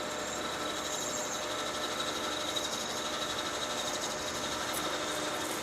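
Metal lathe running steadily with a constant whine while a parting-off tool cuts through the turned workpiece.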